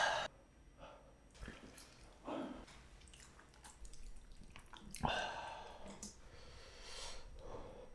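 Close-miked wet mouth sounds of eating spicy cheese-braised chicken: a handful of separate moist chewing and slurping noises with short quiet gaps between them.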